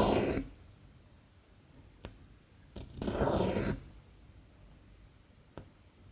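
Cotton embroidery thread pulled through 14-count cross-stitch fabric with a swish, twice: the first ends just after the start and a full pull comes about three seconds in. Faint single ticks of the needle through the cloth fall between them.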